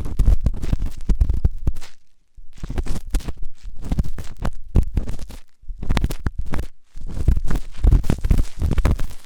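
Ear-cleaning tool scratching and scraping hard inside an ear, in dense runs of strokes with brief pauses about two seconds in and again near six and seven seconds.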